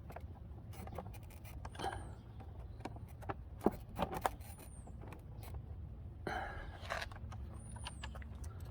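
Small scattered clicks and brief scrapes of hand work on a motorcycle fairing mount: bolts, washers and nylon lock nuts being handled and pushed into the brackets, over a steady low hum.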